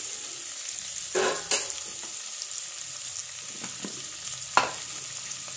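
Whole shallots, garlic, ginger, curry leaves and coconut slivers sizzling in hot oil in a steel pressure cooker as they are sautéed, with a steady hiss. A few short clicks and scrapes of a stirring spoon against the pot break in, the sharpest about four and a half seconds in.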